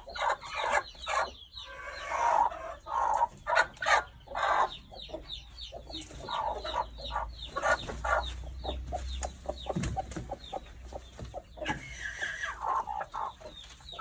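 Chickens clucking, a busy string of short calls throughout.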